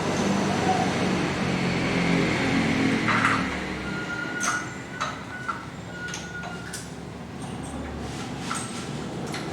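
Steady mechanical background noise with several short knocks and clanks, and a thin high tone that sounds on and off for a couple of seconds in the middle.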